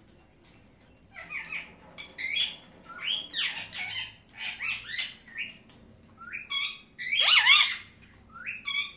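A Psittacula parakeet squawking and chattering. It gives a run of short calls that glide up and down in pitch, starting about a second in, and the loudest and longest call comes near the end.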